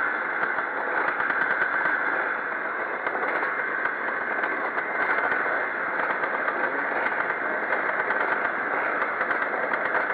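Engines of pre-1965 motocross motorcycles racing, blending into a steady, dense engine noise with no single bike standing out.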